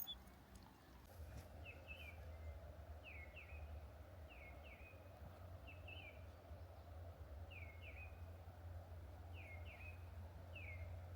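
A bird calling over and over, short paired notes that drop in pitch, repeated about once a second, over a faint steady low rumble.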